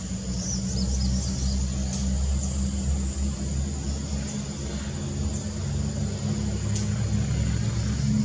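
A motor vehicle engine running with a steady low hum, under a continuous high insect drone and a few short bird chirps in the first second or so.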